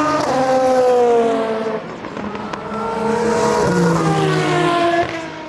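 Two endurance race cars passing at speed, one after the other. Each engine note drops in pitch as the car goes by: the first just after the start, the second near the end.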